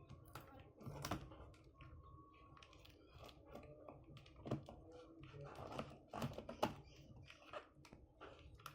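Packaging around new motorcycle body panels being opened and handled: faint, irregular clicks and crinkles.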